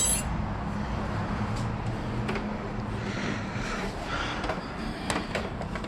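Steady low mechanical hum, like an engine or machine running in the background, with a few faint clicks and taps from handling parts.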